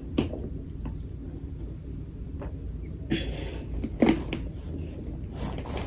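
Faint handling and eating noises: a few soft clicks, a short rustle about three seconds in and another near the end, over a low room hum.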